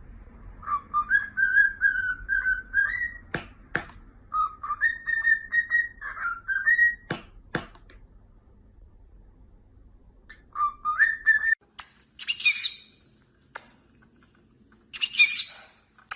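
A pet parrot whistling a short warbling tune three times, with two sharp clicks after each of the first two phrases. About twelve seconds in come harsh, raspy bird screeches.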